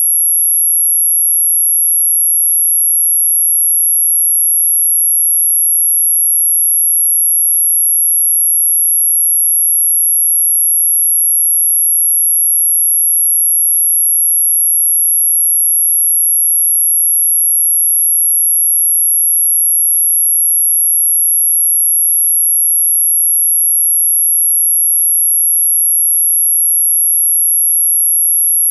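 A single steady, very high-pitched electronic sine tone, unchanging throughout, played as a mosquito-repellent sound.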